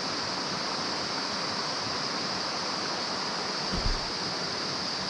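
Mountain stream water running over rocks, a steady rushing.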